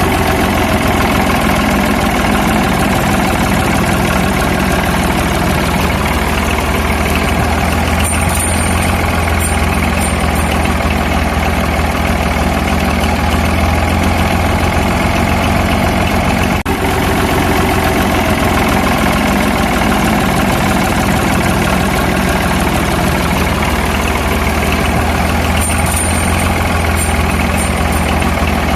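Compact tractor's engine idling steadily: a low, even drone, with a few faint high clicks about a third of the way in and again near the end.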